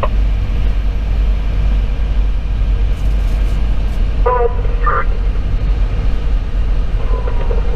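Steady low rumble of a Pierce Velocity fire engine's Detroit Series 60 inline-six diesel and its tyres at highway speed, heard from inside the cab. Two short pitched blips come a little past halfway.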